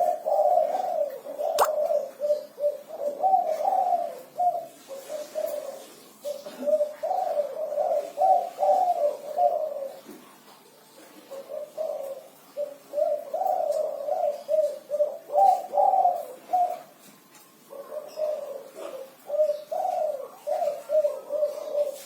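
Spotted dove (derkuku, a 'kuku 6' singer) cooing in repeated phrases of low, rolling coos, in four bouts with short pauses between them.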